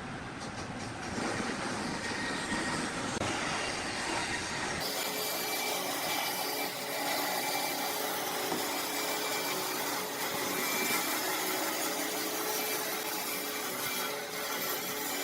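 Woodworking workshop noise: power tools cutting or working wood. The sound changes abruptly about five seconds in, then runs on steadily with a faint machine hum.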